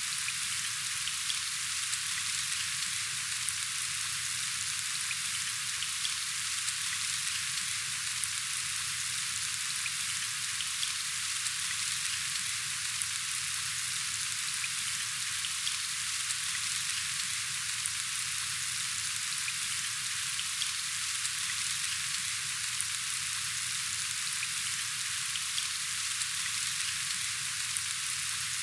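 Steady rain falling: a dense, even hiss with faint scattered drop ticks, unchanging throughout.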